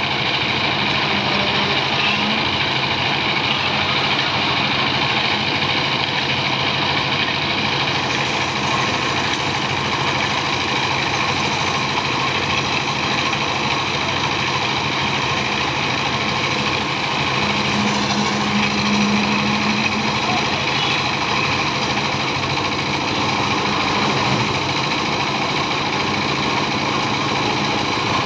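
A small engine running steadily, with no change in speed.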